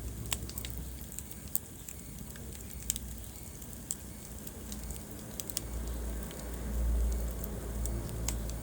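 Wood fire burning in a fireplace: scattered sharp crackles and pops from the burning logs over a low rumble of flame that swells for a couple of seconds near the end.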